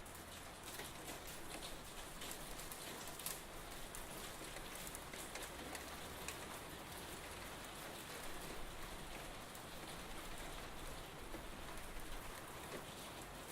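Steady rain falling, with many fine drops pattering on hard surfaces.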